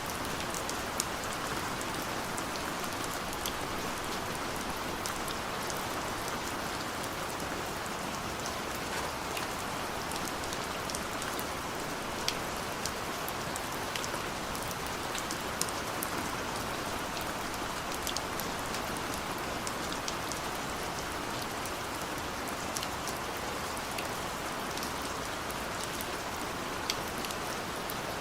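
Steady rain falling, a constant hiss with many small sharp drop ticks scattered through it.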